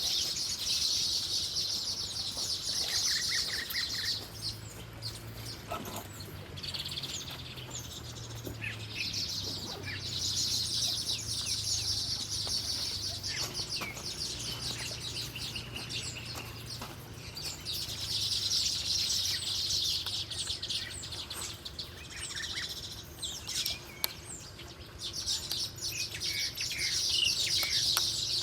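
Wild birds chirping, with dense, rapid high-pitched trills that come in bursts of a few seconds and short chirps scattered between them.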